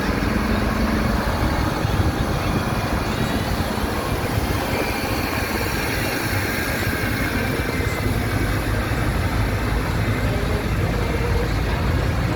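Tractor engines running steadily, a continuous low engine noise with no distinct knocks or revs.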